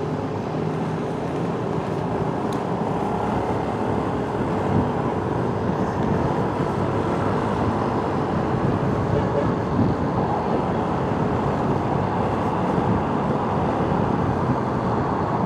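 Motorcycle under way on a city road in traffic: a steady noise of engine, tyres and moving air, with a faint steady engine tone in the first few seconds.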